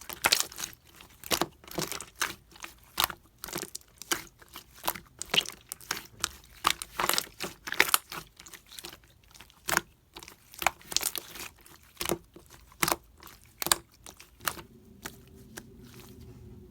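Slime being squeezed and stretched by hand, making irregular crackling pops. The pops thin out near the end.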